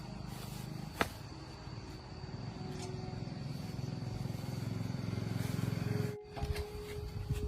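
Small motorbike engine running steadily, picking up slightly, then cutting off abruptly about six seconds in. A single sharp click comes about a second in.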